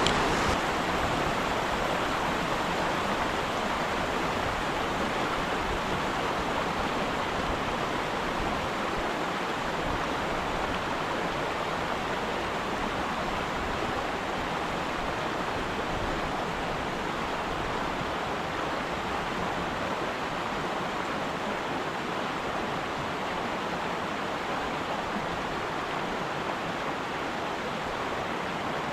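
Flowing stream water rushing in a steady noise.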